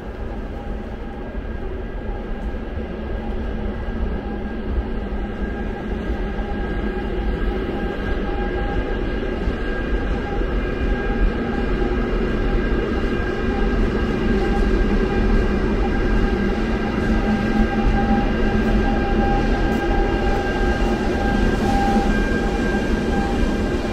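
ITX-Saemaeul electric multiple-unit train pulling into the station platform, its running noise growing steadily louder, with steady tones held over the rumble.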